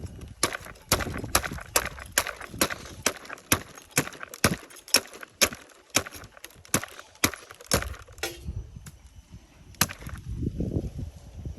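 A blade chopping into a coconut: a quick, even run of sharp chops, about two to three a second. After about eight seconds the chopping stops, and there is one more chop and some low rumbling handling noise.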